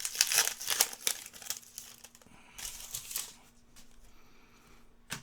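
Foil trading-card pack wrapper crinkling and tearing as it is opened. The crackling is densest in the first two seconds, comes again briefly about three seconds in, and a single click sounds near the end.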